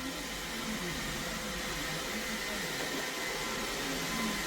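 iRobot Roomba 692 robot vacuum running: a steady whirring hum of its motor and brushes, with a thin high whine held throughout.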